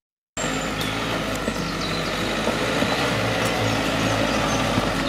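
Suzuki Jimny 4x4's engine running steadily as it crawls over a rocky forest track, starting about a third of a second in, with a few faint ticks and high squeaks over it.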